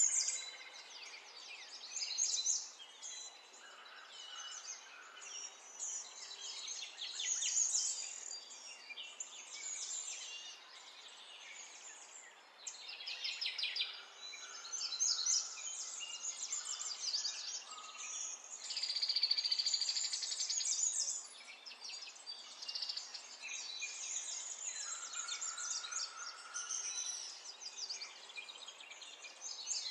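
Birdsong: many short high chirps and fast trills over a faint steady hiss.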